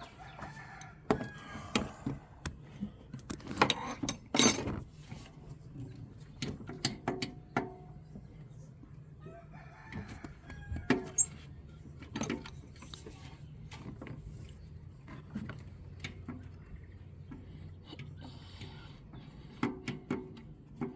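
Scattered sharp metal clinks and knocks from hand tools working on the alternator mounting bolt, with a rooster crowing and chickens clucking in the background.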